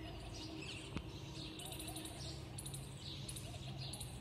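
Birds chirping, short high chirps repeated again and again over a low steady hum, with one sharp click about a second in.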